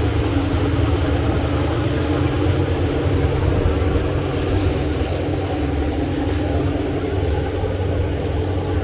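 Diesel locomotive engine running steadily with a deep, even hum.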